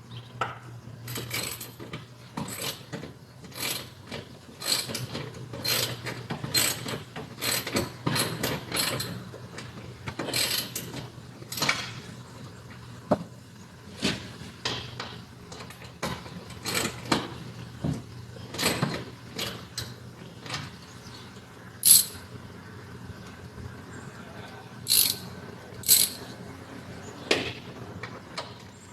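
Hand tool working a screw in a car's interior: a run of irregular clicks and scrapes, thinning out into a few sharper knocks in the second half, over a low steady hum.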